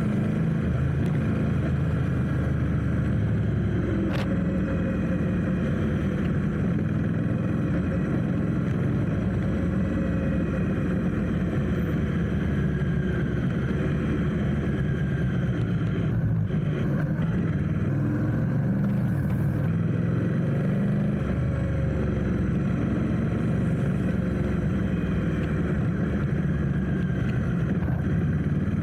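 Motorcycle engine running steadily at low revs in slow traffic, a constant low rumble with faint rising and falling pitches over it. A single sharp click about four seconds in.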